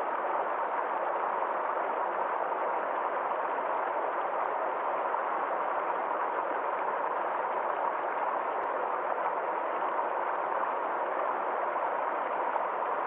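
A small forest stream flowing steadily, a constant rushing trickle of water without change.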